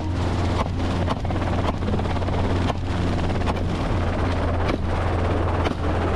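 Helicopter in flight, a steady heavy low drone with rushing wind noise.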